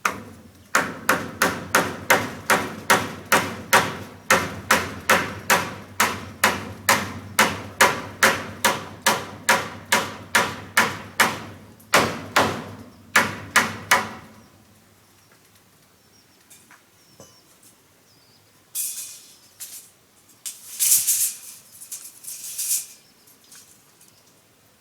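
A fast, even run of tool blows on wood, chopping or hammering, about three a second for some 13 seconds, each strike ringing briefly. Short bursts of rustling follow near the end.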